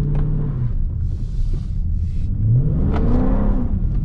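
Dodge Charger Scat Pack's 392 HEMI V8 pulling in second gear with traction control off, held steady and then revving up about two and a half seconds in before easing off.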